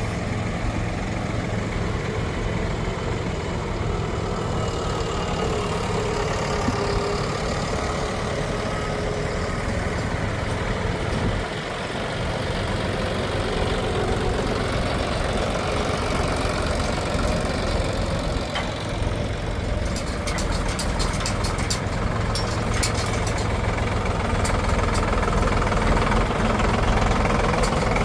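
Diesel engine of a backhoe loader or tractor running steadily, with a run of light ticks about two thirds of the way in.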